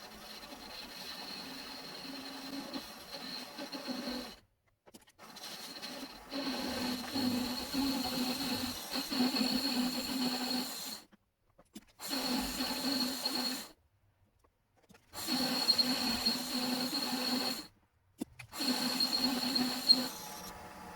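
A small motor-driven machine running with a steady high whine over a low hum, heard in several short stretches broken by abrupt cuts to silence.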